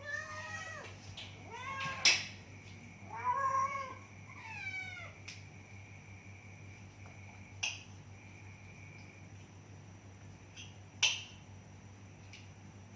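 A domestic cat meowing four times in quick succession, each call rising and falling in pitch, then falling quiet. A few sharp clicks or knocks come about two, five, seven and a half and eleven seconds in.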